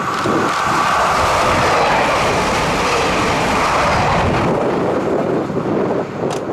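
Passenger multiple-unit train passing close by at speed: a loud rush of wheel and running noise, with a steady high whine at first, that drops away about four and a half seconds in, leaving a fainter rumble.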